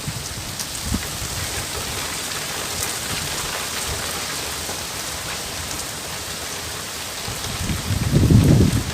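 Steady rain falling and pattering on surfaces, with scattered individual drops. About eight seconds in, a low rumble swells up under it.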